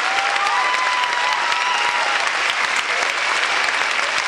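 Audience applauding steadily, with a few long held tones sounding over the clapping in the first couple of seconds.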